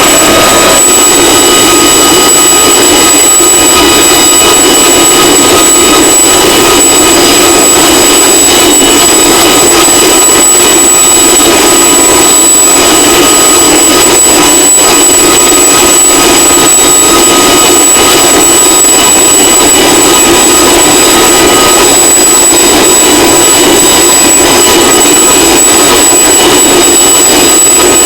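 CH-47 Chinook helicopter's twin turboshaft engines running steadily, very loud, a constant rushing roar with a high turbine whine held on one pitch.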